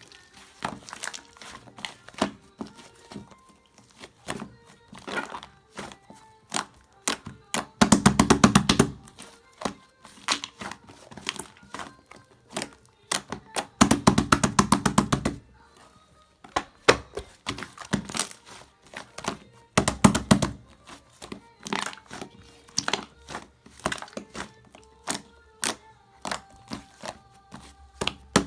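Meringue-cookie slime being pressed and squished by hand, giving a run of sticky clicks and crackles, with bursts of dense crackling about a third of the way in, around the middle and about two-thirds through.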